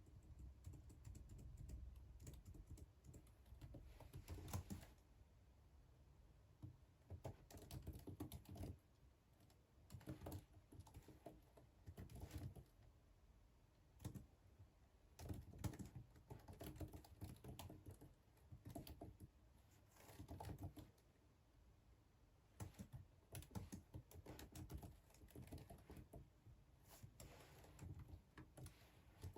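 Soft typing on a computer keyboard: clusters of key clicks in bursts of a second or two, separated by short pauses.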